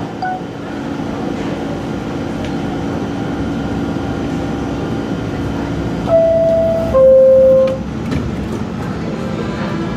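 New York City subway train rumbling steadily. About six seconds in comes a two-note falling door chime, a higher tone then a lower one, each held close to a second: the signal that the doors are about to close.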